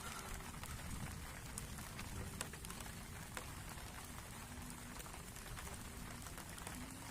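Steady rain falling, with scattered sharp ticks of single drops striking.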